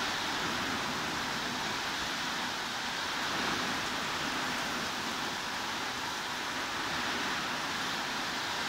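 Steady heavy rain: an even, unbroken hiss with no distinct drops, thunder or other events.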